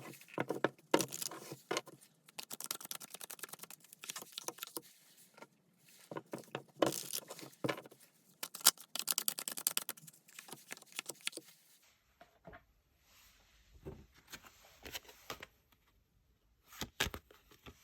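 Tarot cards shuffled by hand: bursts of rapid, papery flicking clicks, then sparser and quieter handling in the last few seconds with a sharper knock near the end.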